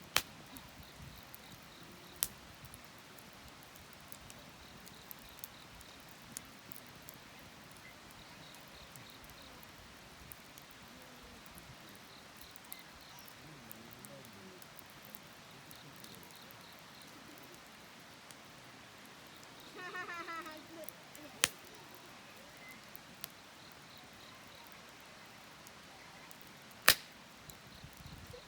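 Wood campfire burning with a faint hiss and occasional sharp pops from the wood, the loudest just at the start, about 21 seconds in and near the end. A brief chirping call comes in about 20 seconds in.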